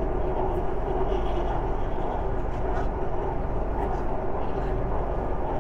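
Steady running noise inside a moving BTS Skytrain carriage: a constant low rumble with a steady hum and a few faint light clicks.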